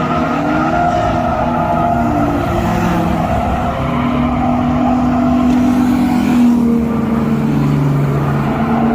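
Drift cars running on track, engines held at high revs with pitch rising and falling, over a steady loud wash of tyre noise.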